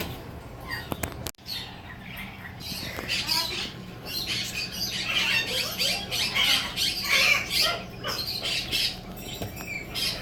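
Parrots squawking and chattering: a dense run of short, shrill calls, close together, starting about two seconds in.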